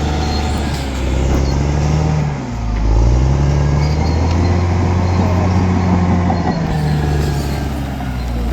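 Large bulldozer's diesel engine running under load. Its pitch drops as it lugs down about two and a half seconds in, then recovers, and it dips again slightly near the end.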